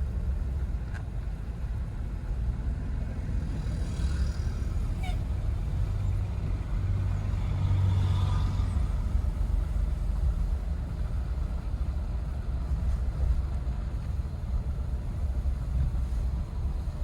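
Steady low rumble of a Jeep's engine and tyres heard from inside the cabin while driving on snowy city streets, swelling a little about halfway through, with a few faint higher tones from traffic outside.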